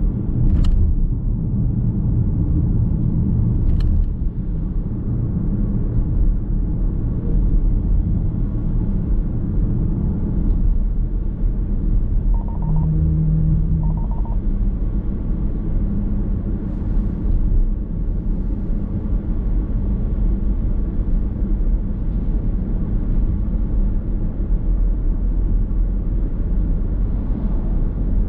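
Steady road and tyre rumble of a car driving, heard inside the cabin, with a couple of sharp clicks in the first few seconds and two brief tones about halfway through.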